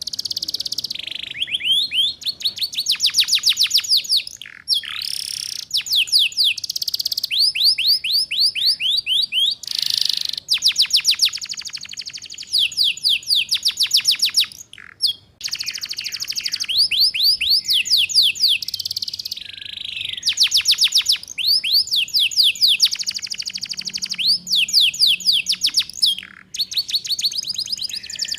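Domestic canary singing continuously in fast trills, each phrase a rapid run of repeated rising notes lasting a second or two, with short breaks between phrases. The song is of the 'ngeriwik' trilling type.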